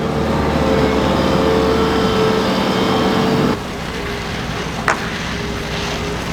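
City street noise with a vehicle engine running. It drops suddenly to quieter street sound about halfway through, and there is one sharp click a little later.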